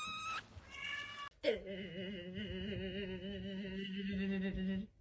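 A cat meowing in short, high, rising calls, then, after a sudden cut, one long, low, wavering drawn-out call held for about three seconds.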